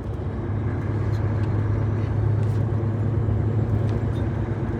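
Renault T-range truck's diesel engine and road noise heard from inside the cab while driving, a steady low drone.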